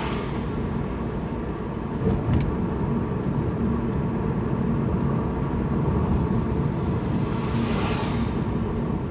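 Car cabin noise while driving: a steady low rumble of engine and tyres on the road. A short knock comes about two seconds in, and a hiss swells and fades near the end.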